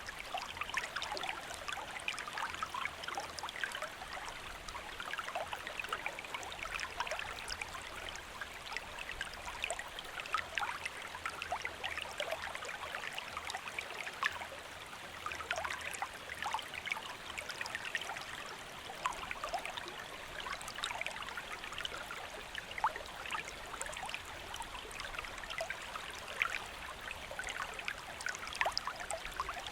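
Shallow stream flowing steadily, with a constant rush of water and many small splashes and gurgles over it.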